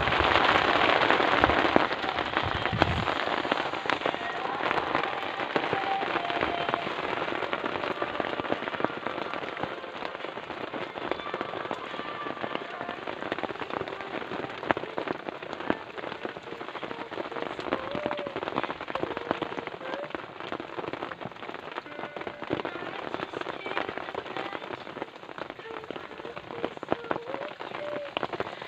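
Heavy rain falling steadily, a dense crackle of drops striking a surface, loudest for the first couple of seconds.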